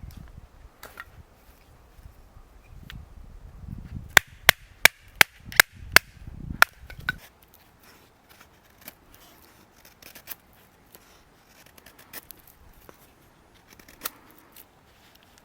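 Wood being chopped: a quick run of about six sharp, cracking strikes, roughly two a second, in the middle, with scattered fainter knocks and clicks before and after.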